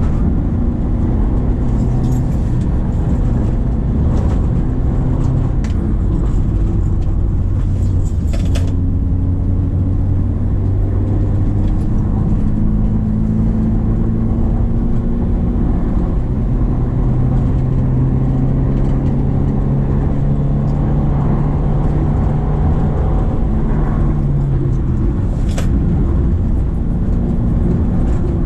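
Subaru Impreza XV's 2.0-litre flat-four boxer engine pulling uphill, its note stepping and gliding in pitch a few times as revs change. A couple of short sharp clicks come through, one about a third of the way in and one near the end.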